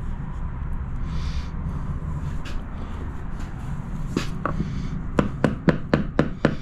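A quick series of sharp, hard clicks and taps during tile work, about four a second, starting a few seconds in, over a low steady rumble.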